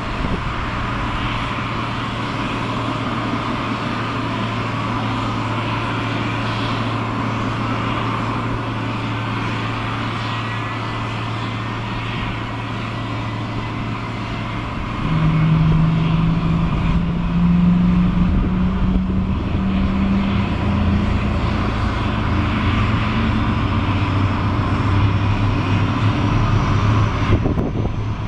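Engines running at the airport apron around a Boeing 767-300ER airliner: a steady hum with a faint, slowly rising whine, then about halfway in a louder, deeper engine drone sets in and climbs slowly in pitch.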